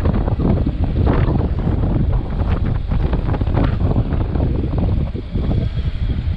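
Wind buffeting the microphone on a moving motorcycle: a loud, rough rush that dips briefly about five seconds in.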